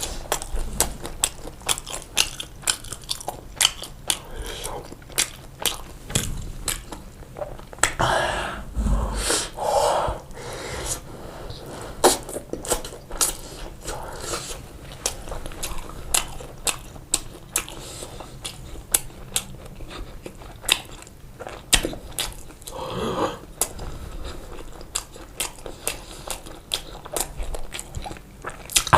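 Close-miked chewing of pizza: steady mastication with many sharp, irregular mouth clicks and some crunching of the crust.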